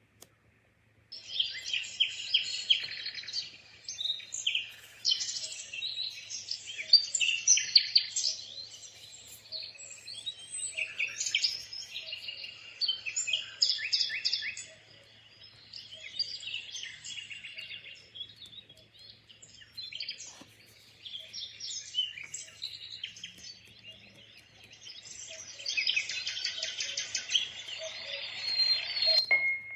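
Birdsong nature sound played by the Dreamegg Pocket Sleep 1 mini white noise machine: a dense chorus of chirps and trills that starts abruptly about a second in, over a faint low hum.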